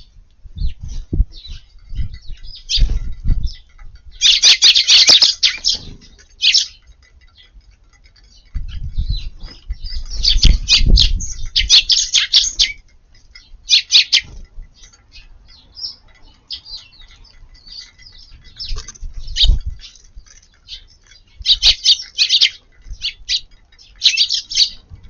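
Eurasian tree sparrows chirping in quick, busy bursts while feeding, with low thumps and wing flutters among them.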